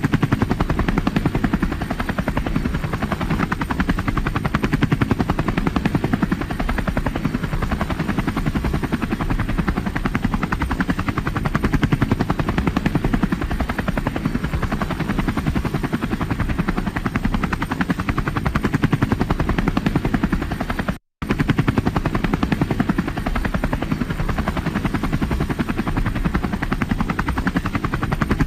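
Helicopter in flight, its rotor blades chopping in a fast, steady beat. About three-quarters of the way through the sound cuts out completely for a fraction of a second, then resumes unchanged.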